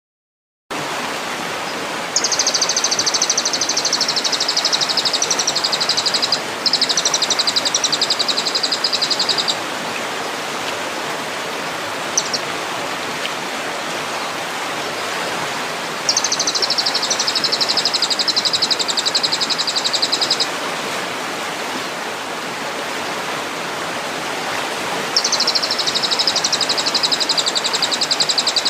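Steady rush of running stream water with a songbird singing long, very fast high trills of about three to four seconds each. The trills come four times: about two seconds in, straight after at about six seconds, around sixteen seconds and about twenty-five seconds in, with a single short note near the middle.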